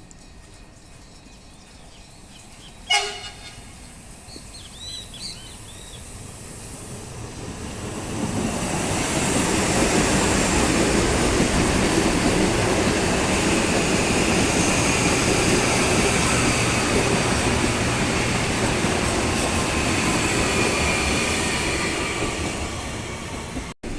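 An electric commuter train on CPTM Line 7 passing through the station: wheel and rail noise builds from about eight seconds in, holds steady with a thin high whine over it, then eases off near the end. A short sharp sound comes about three seconds in.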